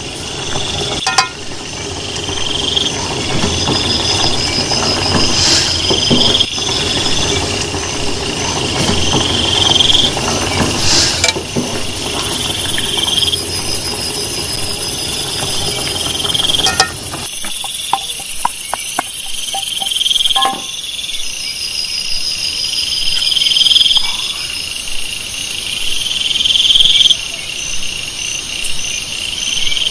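Forest insects calling in repeated trilling phrases, each about a second long and coming every couple of seconds, with a faster pulsing trill higher up. A steady rushing noise sits under them and cuts off about seventeen seconds in, followed by a few light clicks.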